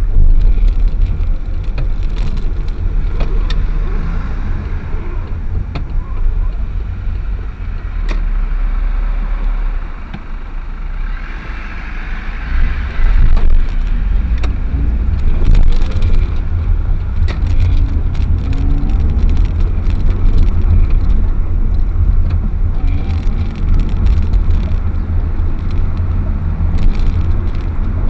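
Car driving: a steady, heavy low rumble of road and engine noise, with frequent small knocks and rattles throughout.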